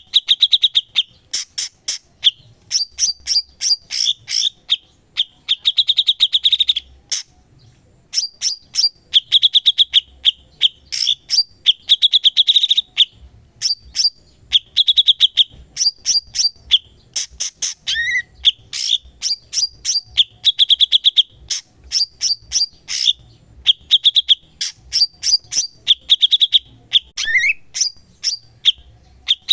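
Cucak cungkok singing continuously: rapid strings of sharp chips mixed with short buzzy trills, repeated in phrases every second or two, with a rising slurred whistle now and then.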